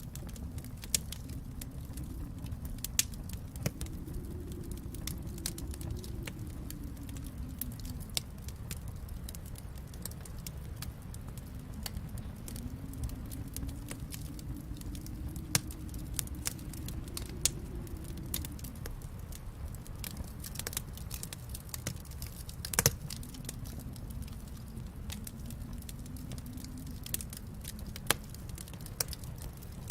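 Wood fire crackling in a fireplace: irregular snaps and pops, one louder pop about 23 seconds in, over a low rumble that swells and fades several times.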